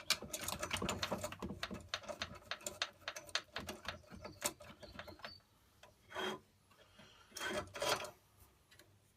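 Quick, rapid rubbing and scraping as a clamp is fitted and screwed down over wooden knife handle scales, then two short scrapes near the end.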